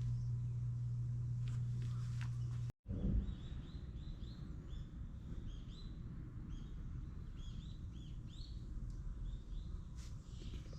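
A steady low hum that cuts off suddenly about three seconds in, followed by outdoor ambience with many small bird chirps repeating over a low background rumble.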